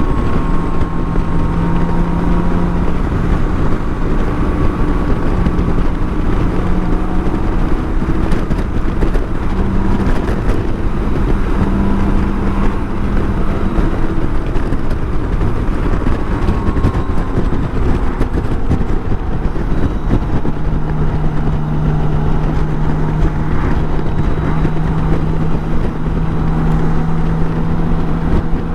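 BMW K1600 GTL's inline-six engine pulling at road speed, its note holding steady and shifting in pitch a few times as the throttle changes, under a heavy rush of wind noise on the microphone.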